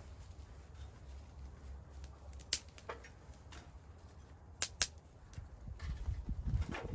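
Wood fire burning in a secondary-combustion fire pit, with a few sharp crackling pops, two of them close together midway, over a low rumble.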